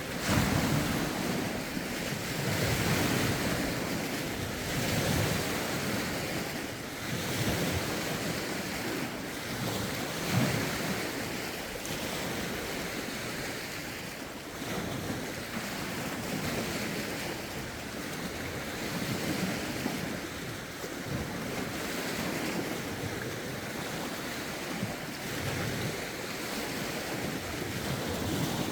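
Lake waves washing in, one after another, a steady wash of water that swells every second or two. Rough wind buffets the phone's microphone.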